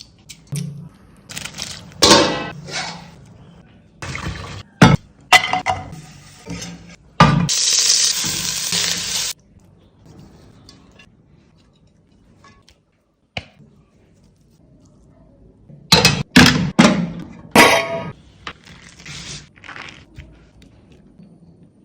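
Kitchen cooking sounds: utensils and dishes clinking and knocking against pots in quick clusters, with about two seconds of steady rushing noise around seven seconds in, then a quieter stretch before more knocks.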